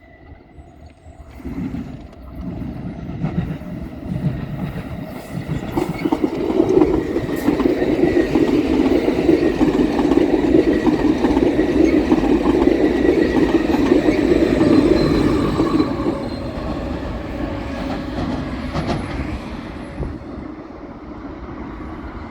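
A passenger train passing close by, its wheels running on the rails. The rumble builds over the first few seconds, is loudest through the middle, and fades off near the end.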